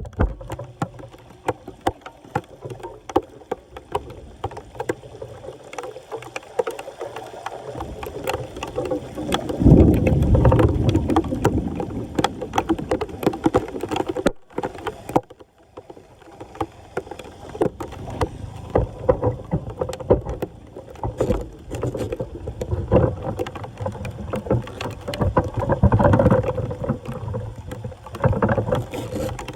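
Floodwater sloshing and splashing at a clogged street drain being cleared by hand, with many short knocks and scrapes; the water gets louder for a couple of seconds about ten seconds in.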